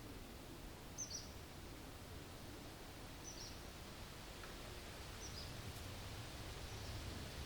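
A songbird repeating a short, high, down-flicking chirp four times, over a steady low rumble of distant highway traffic and a soft hiss of breeze.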